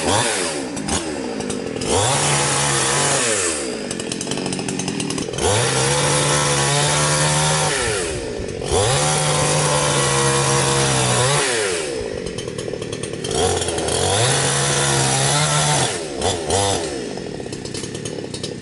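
Gasoline chainsaw revved to full throttle and let back down four times, each run lasting about two seconds, as it cuts through overgrown hedge branches and vines.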